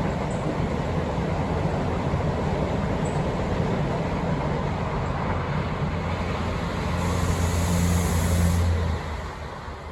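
Vehicle running with a steady low hum and rumble, growing louder about seven seconds in and easing off shortly after.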